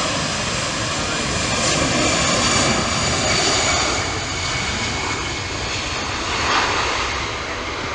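Jet airliner's engines running close by: a steady, loud rushing noise with several high whining tones over it, swelling slightly about two seconds in and again near the end.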